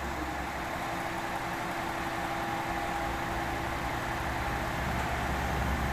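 A train standing at a station platform, its onboard equipment or engine running with a steady hum and a few constant tones.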